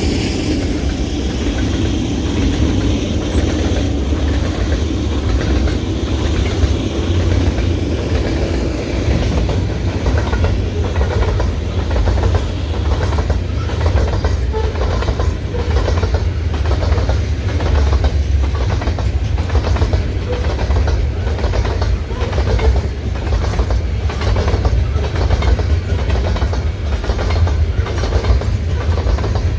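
A long freight train's cars rolling past close by, with a heavy steady rumble. From about a third of the way in, the wheel sets click in a regular rhythm over the rail joints.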